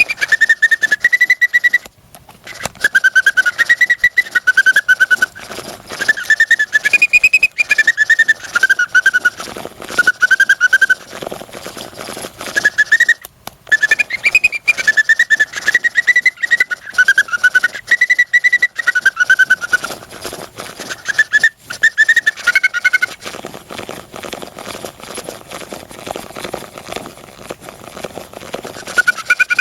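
Hand-cranked bird organ (a small pipe serinette) playing a tune in high, whistle-like single notes, with the clicking of its crank mechanism underneath. The melody breaks off briefly a few times and stops about 23 seconds in, leaving only the quieter mechanical clatter.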